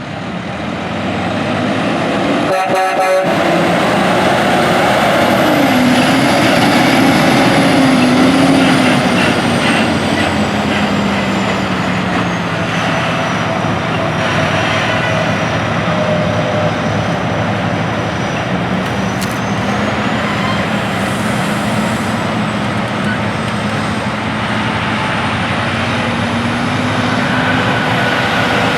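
Peterbilt 389 semi truck's diesel engine pulling away with a full load of corn. It gets louder over the first few seconds, and its pitch rises and falls as it pulls.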